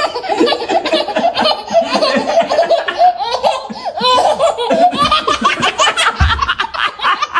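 Babies and young children laughing hard without a break, in quick high-pitched peals and giggles.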